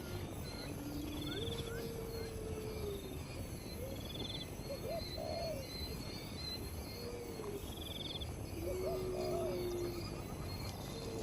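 A chorus of low hooting animal calls, several overlapping, some of them long and level, while a short, high trill repeats about every two and a half seconds.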